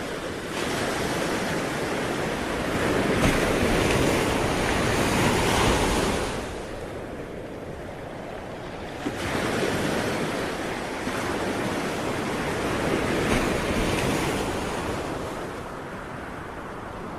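Sea waves breaking and washing on a shore in two long surges: one swells up about half a second in and dies away around six seconds, and a second arrives suddenly around nine seconds and subsides near the end.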